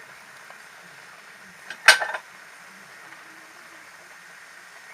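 A utensil clinking against kitchen cookware about two seconds in: one short clatter of a few quick knocks.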